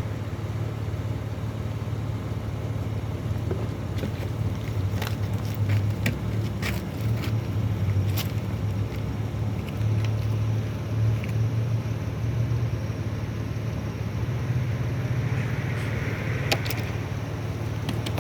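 A vehicle engine idling steadily as a low hum, with scattered small clicks and light knocks.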